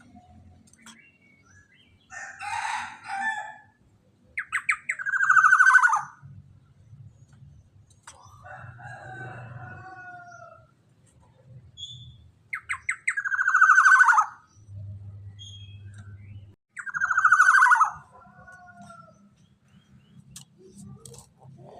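Black-naped oriole (kepodang emas) calling: three loud, harsh, falling calls, each opened by a quick stutter, with quieter calls between them. A faint low hum runs underneath.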